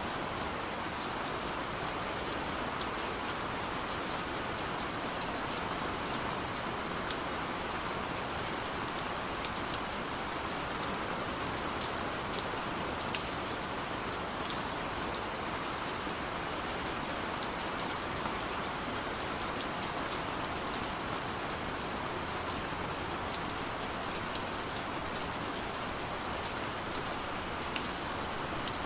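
Steady gentle rain falling, an even hiss with scattered individual drops ticking sharply on a surface.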